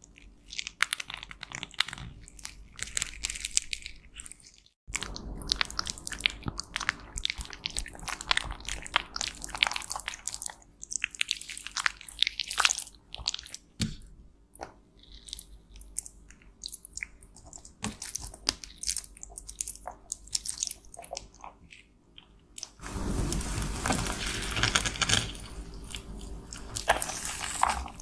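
Pressed cosmetics being crushed and scraped: irregular crunching and crackling, broken by a sudden cut about five seconds in. The crunching turns denser and louder for the last five seconds.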